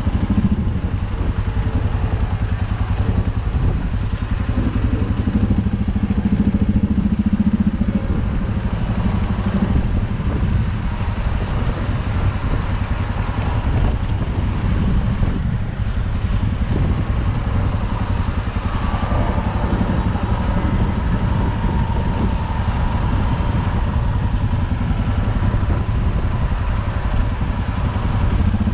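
U650 tractor's four-cylinder diesel engine running steadily under load, with a fast even pulsing and small rises and dips in level. A faint high whine comes in about two-thirds of the way through.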